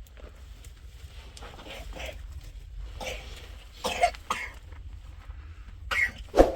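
A person coughing a few times in short, harsh bursts, the loudest near the end, over a steady low rumble.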